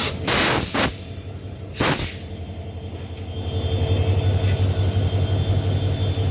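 Passenger train passing on the rail line, with two short loud rushing noises in the first two seconds. A steady low rumble then grows louder from about three and a half seconds in.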